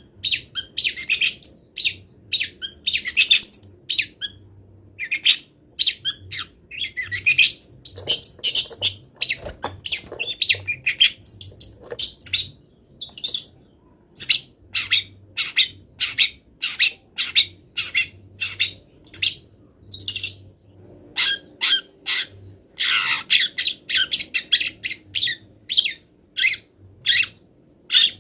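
Long-tailed shrike singing a fast, varied run of short, high chattering notes, its song filled with imitations of other wild birds' calls.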